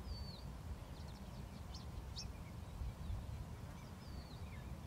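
Wild birds calling with short whistles and chirps: a curving, falling whistle at the start and again near the end, with a run of quick chirps in between, over a steady low rumble.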